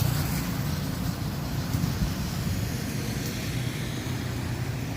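Steady low rumble of road traffic, easing slightly after a vehicle has just gone by.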